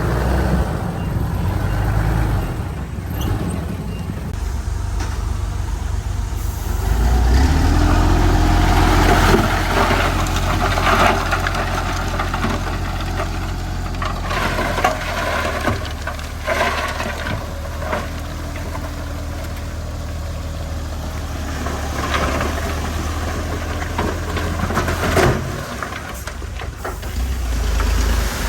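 Heavy diesel earth-moving machinery running under varying load, revving up about seven seconds in, with scattered metallic clanks and knocks.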